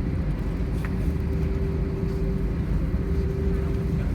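Steady low rumble inside an Airbus A320 cabin on the ground, with a constant hum running through it and a faint tick about a second in.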